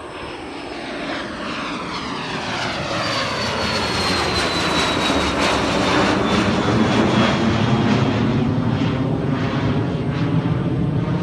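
Embraer Phenom business jet's twin turbofans at takeoff power, its roar growing steadily louder as it passes, with a thin high whine that slides down in pitch from about three to eight seconds in.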